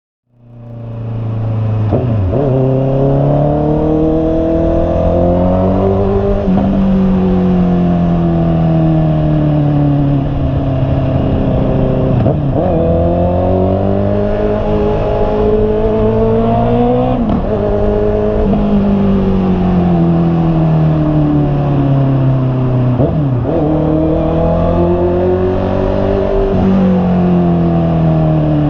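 2021 Honda CB650R's 649 cc inline-four engine under way. The engine note climbs and falls repeatedly, with a sharp break at each of several gear changes. Steady wind and road noise run under it.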